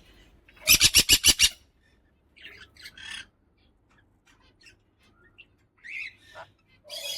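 Sun conure squawking: a loud, rapid burst of about seven harsh calls about a second in, followed by softer, scattered squawks and chirps and another harsh call near the end.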